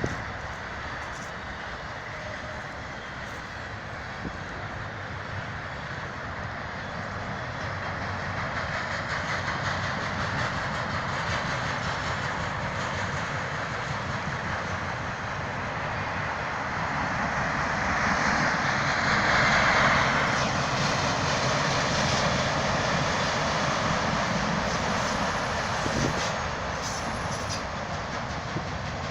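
Freight train's cars rolling past, a steady rumble and rail noise that swells gradually and is loudest a little after the middle.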